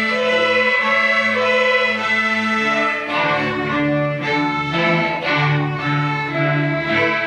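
Student string orchestra playing: held chords at first, then about three seconds in the lower strings come in with moving notes under the melody.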